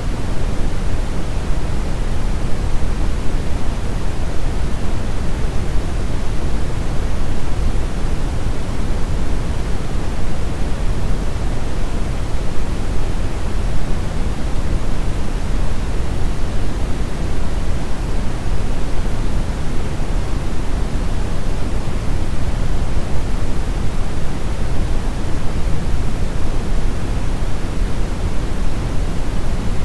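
Steady brown noise: an even, unchanging rush weighted toward the bass, with nothing else in it.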